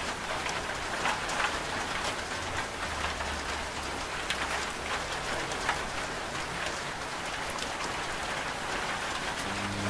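Steady rain hissing, with scattered individual drops ticking on a surface. A faint low rumble comes in briefly from about three to five seconds in.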